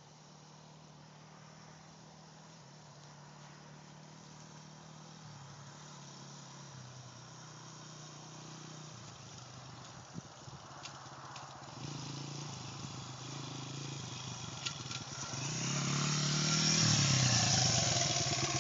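Honda CRF80 dirt bike's small four-stroke single-cylinder engine running, growing steadily louder as it comes closer, its pitch shifting up and down in steps several times.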